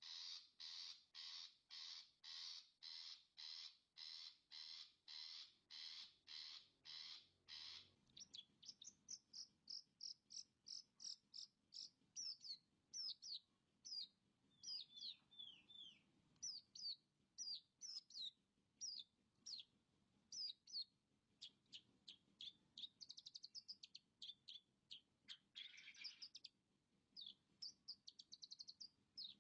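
Long-tailed shrike (cendet) calling and singing, faint. For about the first eight seconds it gives a run of harsh rasping calls, about two a second. Then it breaks into a varied song of quick high chirps and downward-slurred whistles.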